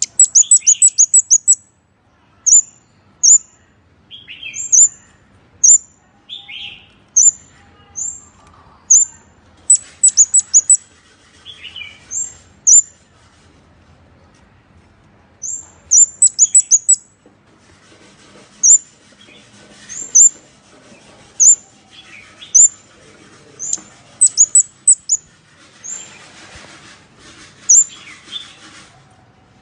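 Scarlet-backed flowerpecker calling: sharp, very high-pitched ticking notes, some single and spaced out, some in quick runs of five or six, with a few lower down-slurred notes among them.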